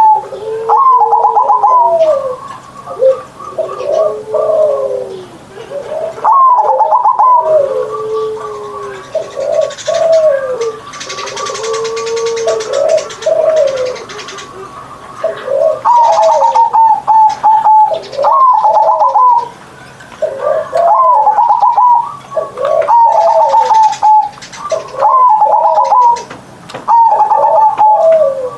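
Zebra dove (perkutut) cooing over and over in its repeated rolling phrases, each phrase a run of fast notes followed by lower drawn-out coos.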